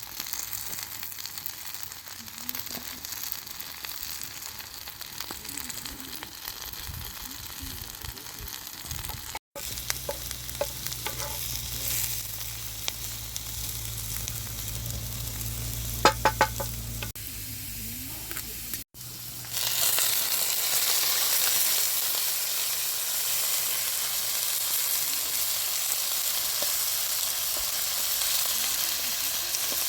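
Food frying and sizzling in a pan while being stirred, with a few sharp clinks of a utensil on the pan about halfway through. The sizzle becomes louder about two-thirds of the way in.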